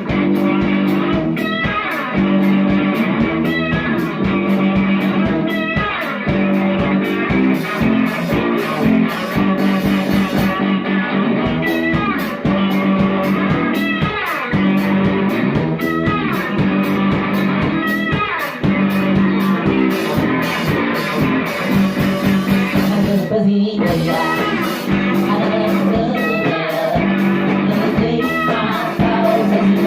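A live rock band jamming: electric guitar chords held over a steady beat.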